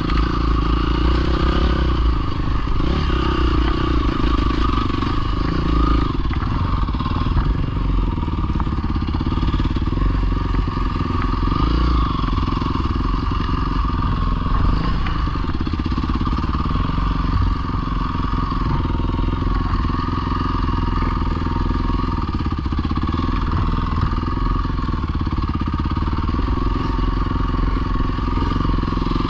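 Dirt bike engine running steadily at a fairly constant speed, with no clear revs or stops.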